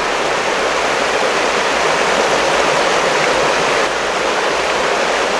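River water rushing steadily over rocks, an even, unbroken sound.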